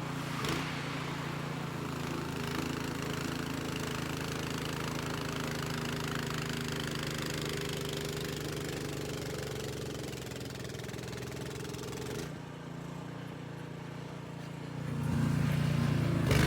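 Gas snowblower engine running steadily, with a broad hiss over it that drops away about twelve seconds in; the engine grows louder near the end.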